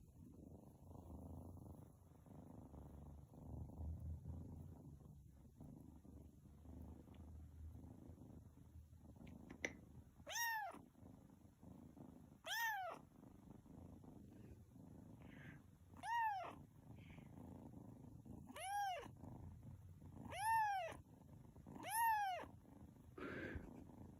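Domestic cat purring for about the first ten seconds, then meowing six times, each short meow rising then falling in pitch, a couple of seconds apart.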